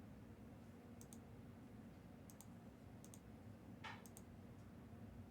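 Near silence: room tone with four faint, sharp double clicks, about one pair a second.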